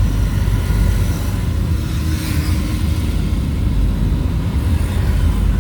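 Vehicle driving along the road: a steady low engine and road rumble.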